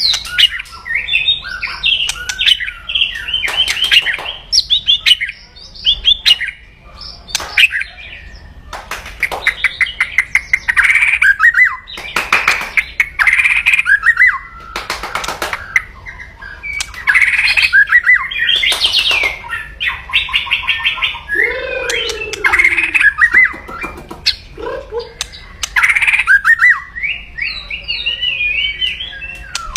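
White-rumped shama (murai batu) giving aggressive 'kretekan' calls: bursts of harsh crackling rattles alternating with fast chattering and whistled phrases, in quick runs with short pauses.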